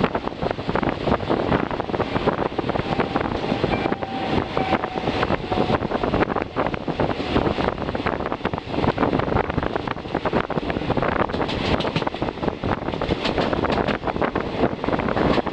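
Passenger train running with a steady rumble and dense rattling, mixed with wind buffeting the microphone.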